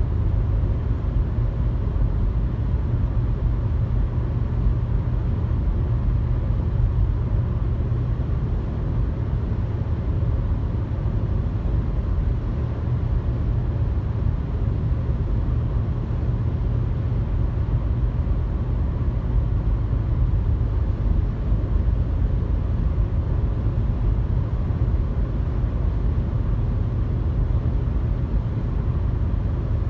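Steady road noise and engine hum inside a car cruising on a highway, a constant low rumble with no changes.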